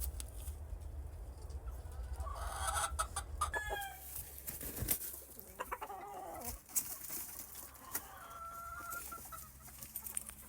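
Gamefowl calling: hens clucking and a rooster crowing, with several separate calls a few seconds apart and scattered sharp clicks.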